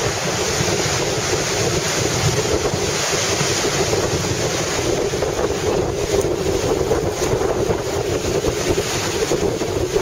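Rough, typhoon-driven sea with waves surging and breaking, under strong wind buffeting the microphone.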